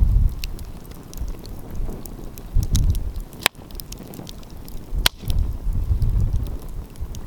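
Wood fire crackling with scattered sharp pops, two louder ones around the middle, while gusts of wind rumble on the microphone.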